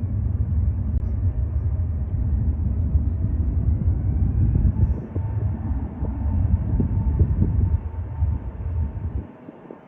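Jet airliner engines rumbling as the aircraft passes, a deep low roar with a faint whine above it, dropping away sharply near the end.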